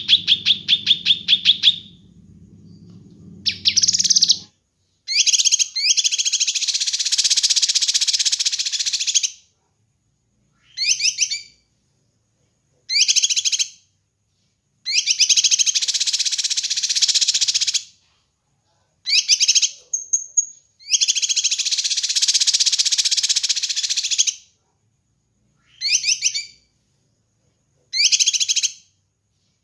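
Kinoi bird singing in separate bursts: quick trills of rapidly repeated high notes alternate with longer, dense chattering phrases of about three seconds, each followed by a silent pause. A low hum lies under the first few seconds.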